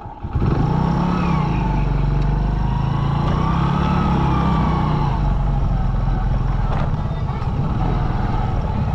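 Motorcycle engine running steadily as the bike is ridden, its pitch rising and falling a little; it gets louder about half a second in.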